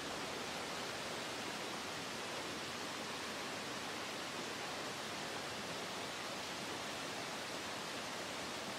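Steady, unbroken rush of water flowing down a rocky Canadian Shield creek.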